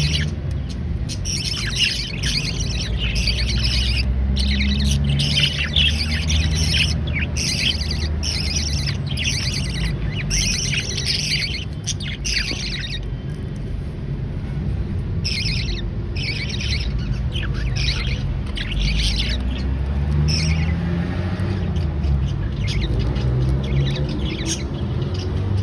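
Baby budgerigars (budgie chicks) chirping and squawking in rapid, overlapping calls, with short lulls, over a low steady rumble.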